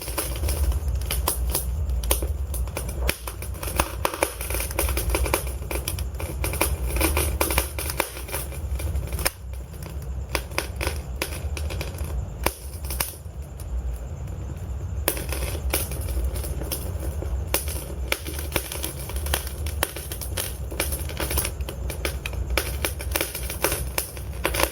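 Wood fire burning in a fireplace: dense, irregular crackling and popping of burning logs over a steady low rumble.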